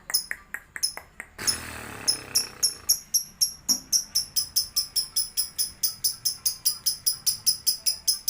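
Lovebird singing its long chattering song (ngekek): a few scattered chirps, then from about two seconds in a steady run of sharp high-pitched chirps, about four a second.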